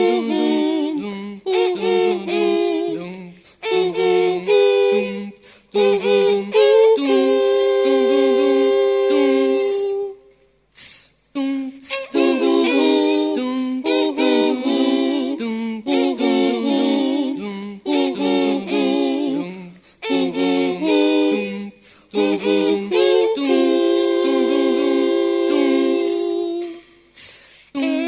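A cappella vocal music: several voices singing chords, with vocal percussion ('dum tss') keeping a steady beat. It breaks off briefly about ten seconds in and again near the end.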